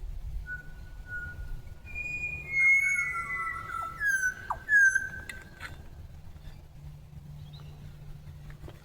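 Clear, piping whistled bird calls from magpies and butcherbirds: a run of held flute-like notes and a few quick down-slurred notes, loudest between about two and five seconds in, dying away by about six seconds.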